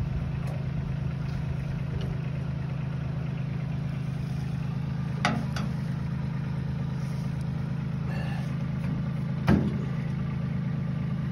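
An engine idling steadily, with a sharp knock about halfway through and a louder one near the end.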